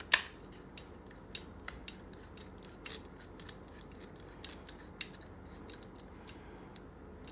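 A screw being threaded back in with a hand driver: a sharp click just after the start, then scattered faint metallic ticks at irregular intervals as the driver turns.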